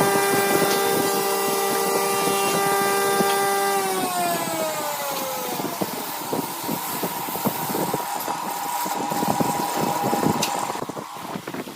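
Wood lathe running with a steady motor whine that slides down in pitch about four seconds in, then a steady higher whine with rubbing from work on the spinning piece, dropping away near the end.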